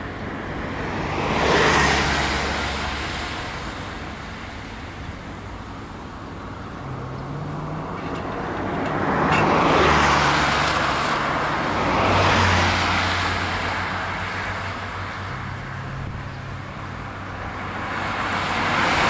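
Road traffic: several motor vehicles pass one after another, each a swell of engine and tyre noise that rises and fades over a couple of seconds, with a low engine hum between them.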